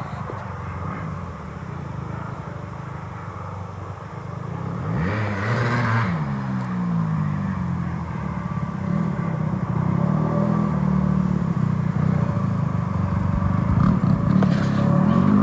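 Honda CRF150 dirt bike's single-cylinder four-stroke engine with a loud custom exhaust running steadily, then revving, its pitch gliding up and down about five seconds in and growing louder toward the end.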